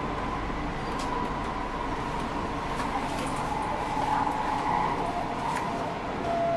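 SkyTrain metro car heard from inside, running with a steady rumble and a motor whine that slowly falls in pitch, with a few light clicks.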